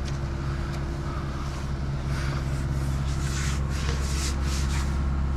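Diesel machinery running steadily with a low drone. Short hissy or scraping noises come in from about two seconds in.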